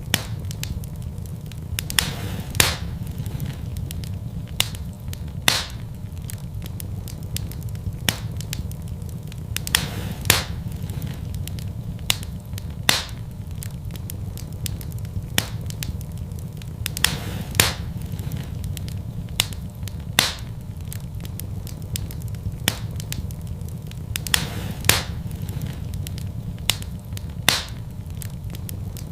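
Wood fire burning in a fireplace: sharp crackles and pops at irregular intervals, every second or two, over a steady low rumble.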